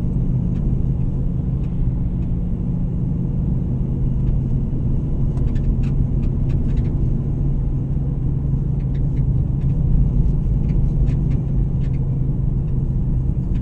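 Steady low rumble of a car on the move: engine and road noise, with a few faint light rattles.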